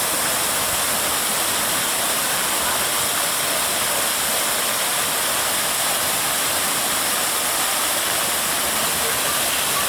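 Waterfall pouring, a steady unbroken hiss of falling water.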